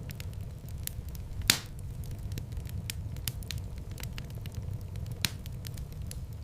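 Wood fire in a fireplace crackling, with a steady low rumble of flames under frequent small crackles. A loud pop comes about a second and a half in, and a second sharp pop about five seconds in.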